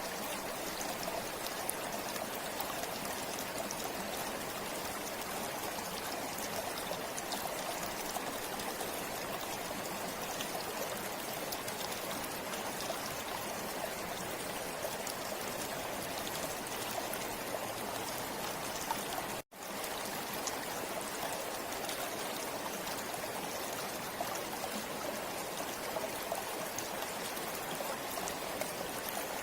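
River water flowing steadily over rocks, an even rushing with fine splashes. The sound cuts out for a split second about two-thirds of the way through.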